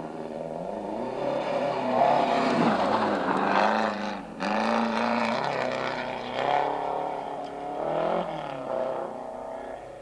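Rally car engine revving hard on a gravel stage, its pitch climbing and dropping again and again through gear changes and lifts off the throttle. The sound cuts out briefly about four seconds in.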